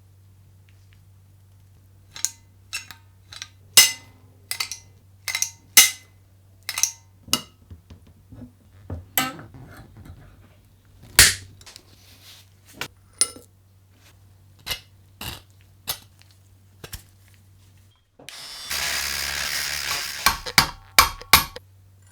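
Workshop tool work on metal and wooden parts: a series of sharp clicks and knocks, irregular and a few per second, then a noisy burst of about a second and a half from a power tool near the end, followed by a few more knocks, over a steady low hum.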